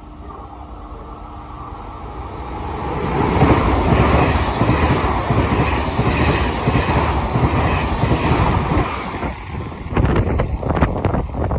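Train passing along the track: the rushing noise builds over about three seconds, stays loud with a regular pulsing as the cars go by, then turns into a quick run of sharp wheel clacks near the end.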